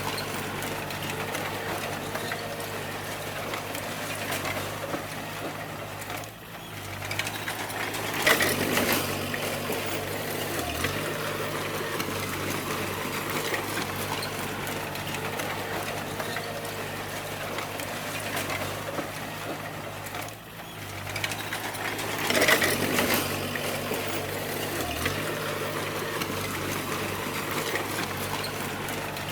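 Bulldozer's diesel engine running with the clatter of its steel tracks while it pushes stone. Twice, about 14 seconds apart, the sound dips briefly and then surges louder about two seconds later.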